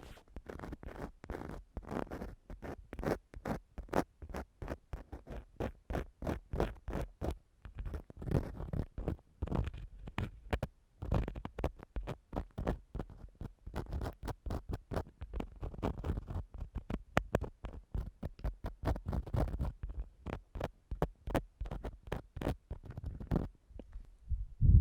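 An ear-cleaning tool scratching and rubbing against a microphone, in quick irregular strokes several times a second, with low rumbles from the mic being handled.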